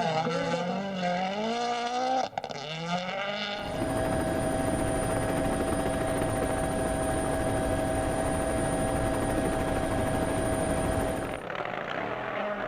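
Rally car engine revving up and down through gear changes for a few seconds. A sudden cut follows to a steady loud whirring drone at a fixed pitch, which lasts about eight seconds and ends abruptly.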